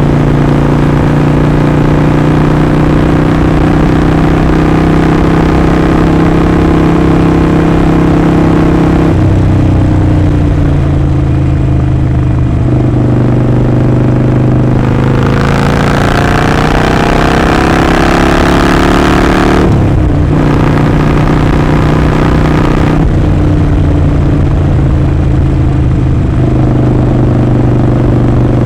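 Harley-Davidson Sportster 48's air-cooled V-twin running under way, loud. It holds steady revs, climbs in pitch around the middle and drops back suddenly about two-thirds in, then runs steady again.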